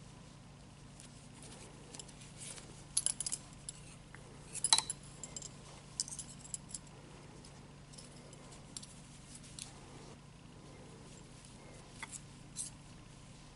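Knitting needles clicking and tapping together in irregular light clicks while stitches are worked, the loudest about three and nearly five seconds in, over a faint steady low hum.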